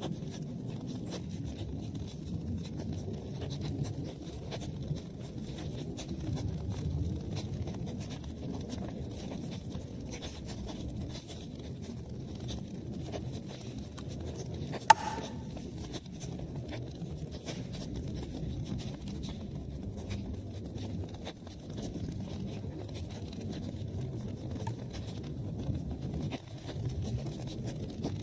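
Wood fire burning in a fireplace: a steady low rumble of flames with scattered small crackles, and one sharp, loud pop about halfway through.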